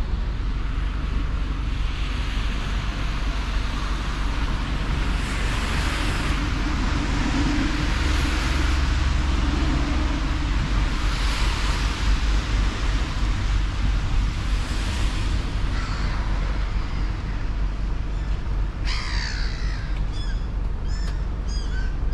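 Steady low outdoor rumble with a few swells of hiss. Near the end a bird starts calling, a string of short calls about once a second.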